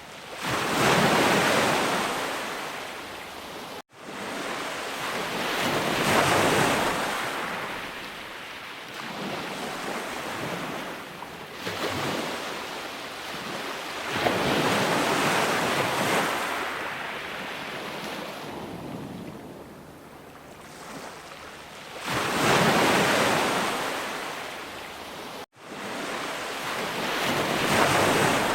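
Sea waves breaking and washing back on a shore, about six surges that each swell and then fade. The sound cuts out for an instant twice, about four seconds in and near the end.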